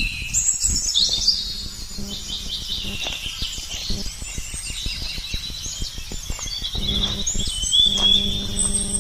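Several birds chirping and singing at once, with overlapping high calls and trills. A steady low hum joins in about seven seconds in.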